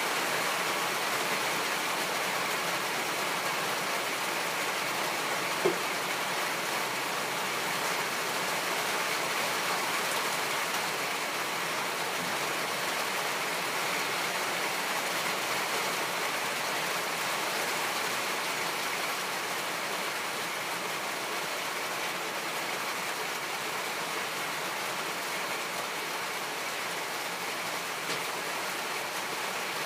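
Steady hiss of rain falling, with a single sharp knock about six seconds in.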